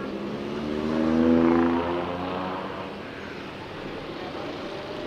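Motorbike engine running, its sound swelling to a peak about a second and a half in and then fading. Steady wind noise on the microphone runs underneath.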